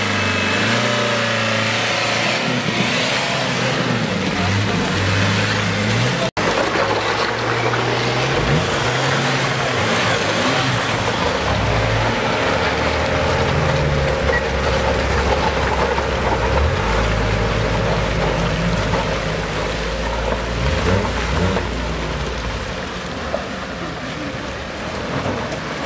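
Wreck-race cars' engines running, their pitch shifting up and down, under a heavy wash of noise. The sound breaks off for an instant about six seconds in, then carries on.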